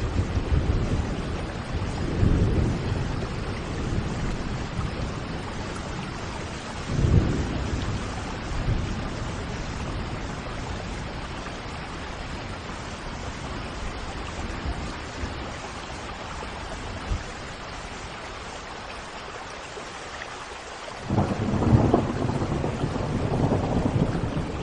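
Steady rain with rolls of thunder: deep rumbles near the start, a short one about seven seconds in, and a longer, louder roll near the end.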